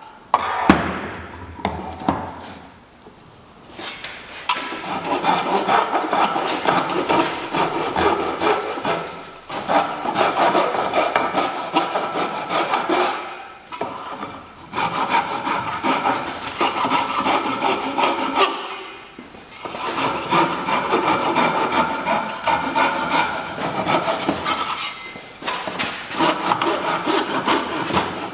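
Hand tool worked back and forth on white oak: a rubbing, scraping sound in stretches of several seconds of rapid strokes, broken by short pauses.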